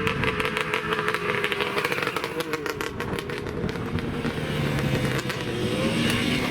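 Motorcycle engine running with a rapid, crackling exhaust beat, its pitch starting to rise near the end.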